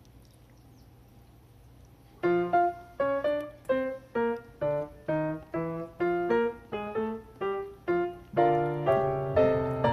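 A faint low background for about two seconds, then piano music starts: a melody of separate notes, about two or three a second, growing fuller near the end.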